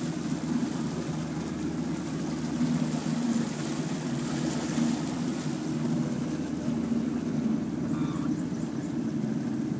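Small boat's motor running at a steady speed, a low even hum with a faint steady hiss over it.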